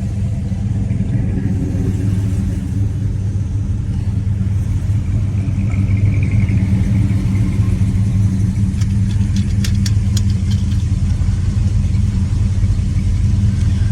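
1970 Plymouth Superbird's 426 Hemi V8 running steadily at a low, even cruising pace, heard from inside the cabin as a deep rumble. There are a few light clicks about two-thirds of the way through.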